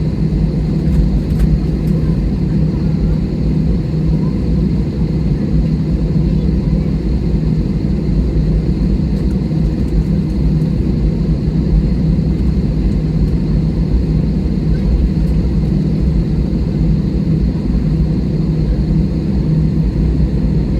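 Airliner cabin noise on the ground: a steady low drone of the jet engines at idle and the cabin air system, with a constant hum and no change in pitch or loudness.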